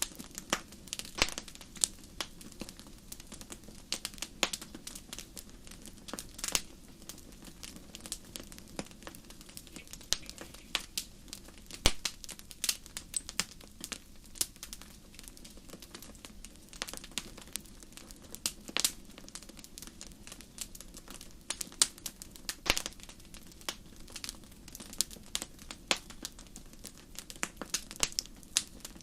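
Wood fire in a fireplace crackling, with sharp, irregular pops and snaps over a soft steady hiss of burning.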